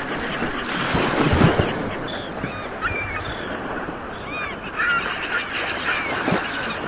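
Ocean surf rolling in, with a wave swelling about a second in, under many short calls from a flock of birds.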